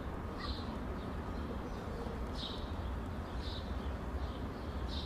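Outdoor ambience: a steady low rumble with four short, high bird chirps spaced irregularly through it.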